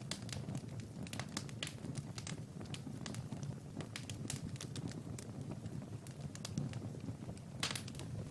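Wood fire crackling in a fireplace: irregular pops and snaps over a low steady rumble, with a cluster of louder snaps near the end.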